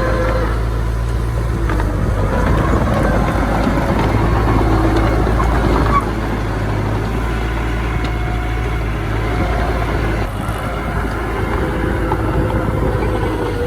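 Diesel engine of heavy earthmoving machinery running steadily with a low rumble, with thin whining tones that come and go above it.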